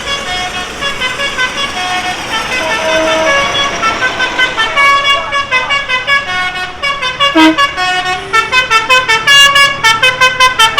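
A loud tune of short, clear notes stepping up and down, turning into fast repeated notes in the last few seconds, over a low engine rumble.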